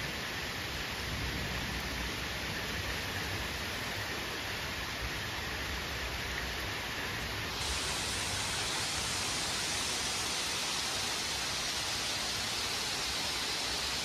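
Steady rain falling, an even hiss. About halfway through it turns abruptly brighter and a little louder.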